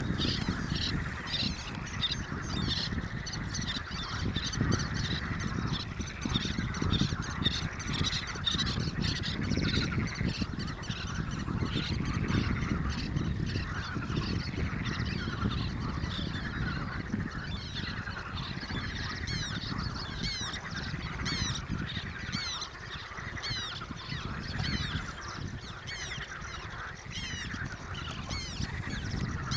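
A chorus of birds calling continuously, with many quick high chirps overlapping.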